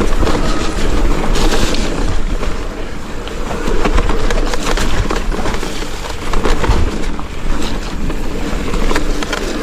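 Mountain bike riding down a wet, muddy trail: wind rushing over the microphone, with the tyres and frame rattling and knocking over the rough ground throughout.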